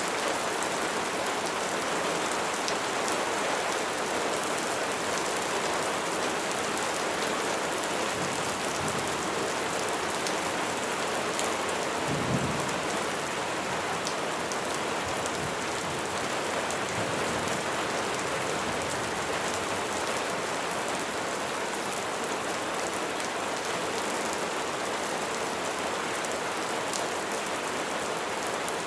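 Steady, heavy rain falling and pattering on surfaces. There is a brief low rumble near the middle.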